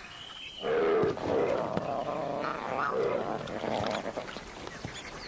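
Lions growling while feeding at a buffalo carcass. The sound starts loudly about half a second in and eases off after about four seconds.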